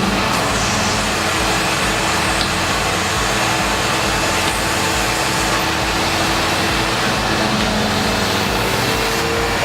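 Windsor Sensor commercial upright vacuum cleaner running steadily, its motor and agitator brush bar working the carpet.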